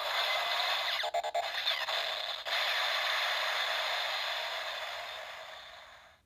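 Electronic sound effect from a Bandai DX Assault Wolf Progrise Key toy's speaker: a steady, noisy rush with a brief crackle about a second in, fading away to silence near the end.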